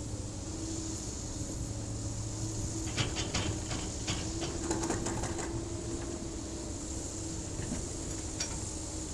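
Hydraulic excavator's diesel engine running steadily, with a rapid series of clanks and knocks from the machine working about three seconds in, and a single knock near the end.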